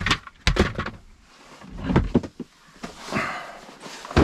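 Hand tools being rummaged through: a string of sharp clacks and knocks, with a couple of short sliding, scraping sounds.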